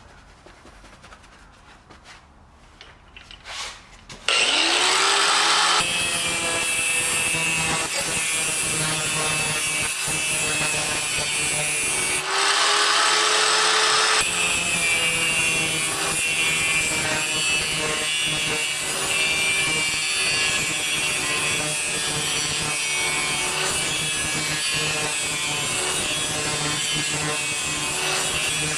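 A power grinder grinding the edge of a steel mower blade, extremely loud. The first few seconds are quiet. About four seconds in, the grinder starts with a rising whine and then runs steadily against the blade. Near the middle the tool comes off the steel for a couple of seconds and its pitch climbs before it bites again.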